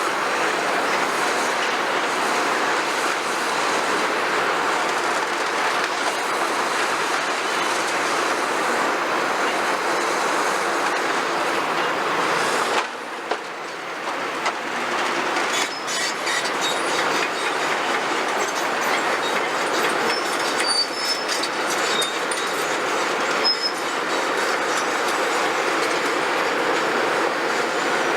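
Heavy demolition excavators at work: a steady, dense clatter of machinery and rubble. Short high metal squeals come in the second half. The noise drops briefly about halfway through.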